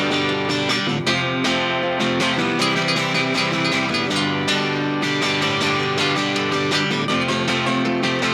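A band playing an instrumental passage between verses, led by strummed acoustic guitar with other guitars over a steady rhythm.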